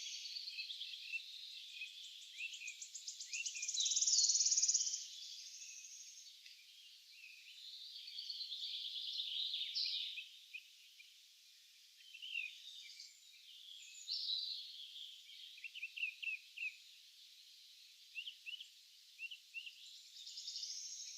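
Several birds singing in a morning forest: overlapping song phrases, trills and short chirps, the loudest phrase about four seconds in.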